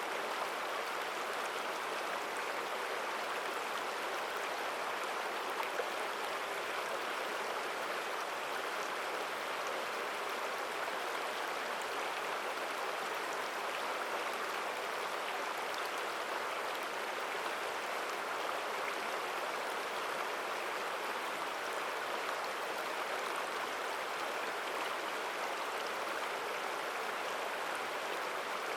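Forest stream flowing strongly: a steady, even rushing of water.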